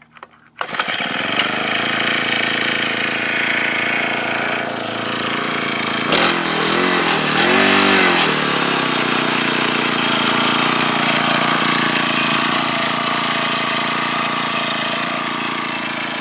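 Small four-stroke engine of a motorized bicycle's friction-drive kit starting up about a second in and running. It is revved up and back down twice partway through, then settles to a steady run.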